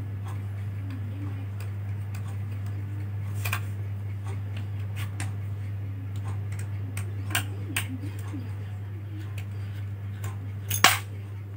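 Small scattered clicks and taps of parts being handled as the mounting bracket is taken off the back of a laptop DVD drive, with one louder click near the end, over a steady low hum.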